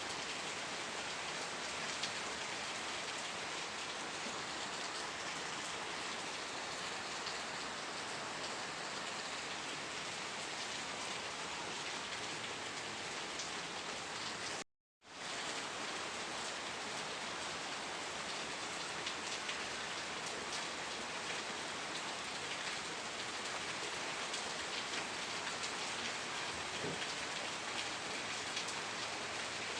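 Steady rain falling, an even hiss with many small drop ticks. It cuts out completely for a split second about halfway through, then returns unchanged.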